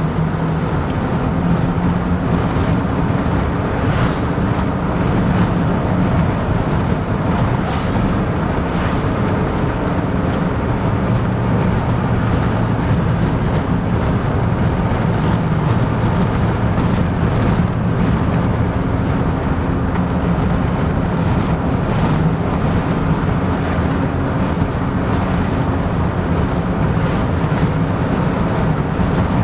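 Steady road noise and the drone of a vehicle's engine while driving, its low engine tone shifting up and down in pitch every few seconds.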